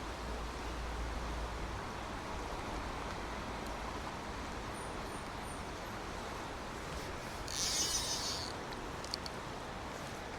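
Steady rush of a small stream with rain falling. About three quarters of the way through comes a brief high buzzing rattle lasting about a second, then a couple of faint clicks.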